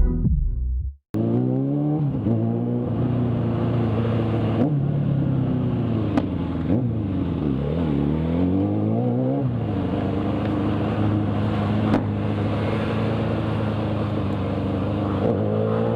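Electronic music ends within the first second. Then a motorcycle engine runs while riding, its pitch climbing and falling with the throttle and gear changes, dipping sharply a little past halfway, then holding fairly steady.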